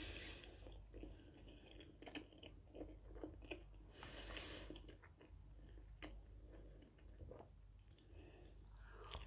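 Quiet close-up chewing of a mouthful of food, with many small wet mouth clicks. Brief hissy noises come at the start and again about four seconds in.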